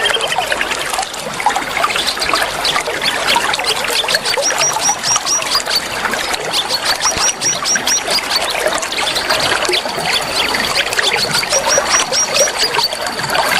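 Many birds chirping and singing over a steady trickle of running water. Runs of about five quick high notes come again and again, and a thin steady high trill runs through the second half.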